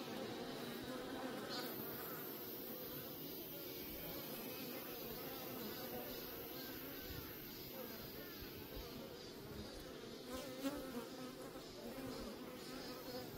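Many Korean native honeybees buzzing together in a steady hum at a wild colony.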